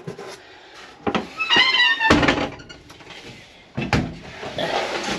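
Cab hardware of a 1959 Ford F700 truck: a short creaking squeak, then a heavy thunk about two seconds in and another about four seconds in.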